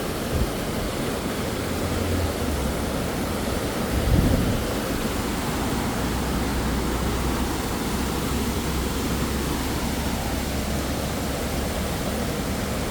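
Steady rushing of a canyon waterfall, with a low rumble underneath and a brief thump about four seconds in.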